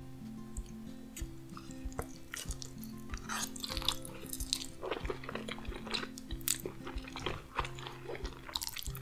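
Chewing a mouthful of homemade baked lasagna, close-miked, with many quick mouth clicks, over background music with steady held notes.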